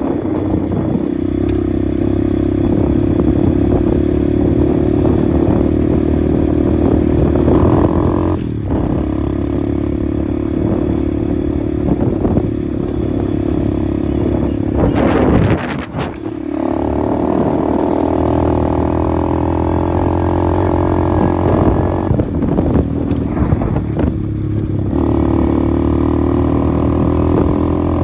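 125cc pit bike's single-cylinder engine running under way, holding a steady note with brief breaks about 8, 16 and 25 seconds in, where the pitch drops and picks back up.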